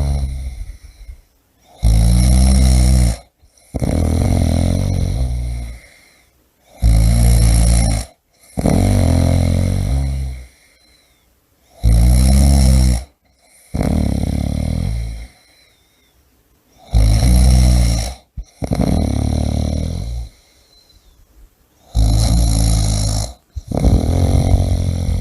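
A person snoring in a steady rhythm, about five breaths in all, one every five seconds or so. Each breath is a loud, rattling snore followed by a softer, longer breath, then a short pause.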